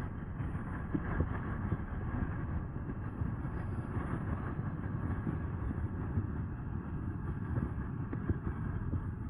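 Steady wind rumble on the microphone and tyre noise from an e-bike being ridden, with scattered small knocks from bumps in the path.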